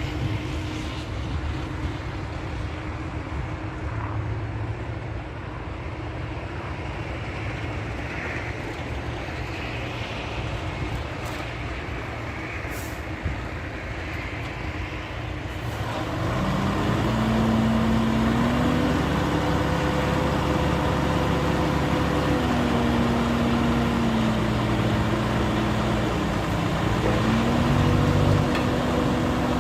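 Heavy diesel earthmoving machinery running steadily. About halfway through, an engine revs up louder, and its pitch drops and rises again twice as it works under load.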